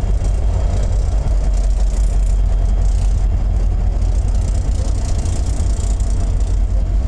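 Diesel-electric freight locomotive passing close with its engine running loud and steady and a heavy low rumble. Near the end the first freight cars start rolling by behind it.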